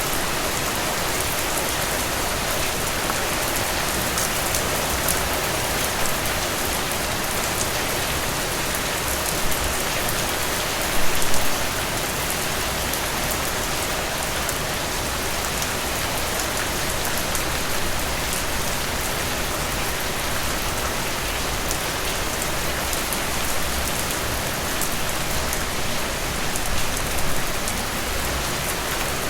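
Heavy rain falling steadily, a dense even hiss of drops with fine individual splashes in it. There is a brief louder patch of splashes about eleven seconds in and a smaller one near the end.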